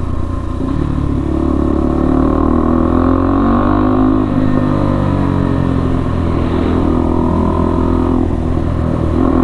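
Single-cylinder engine of a KTM RC 390 running under way through a cat-deleted IXIL exhaust, its note rising and falling gently, with a change in pitch about eight seconds in.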